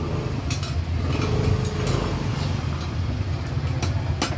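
An engine idling steadily with a low rumble, with a few sharp taps or clicks, one about half a second in and more near the end.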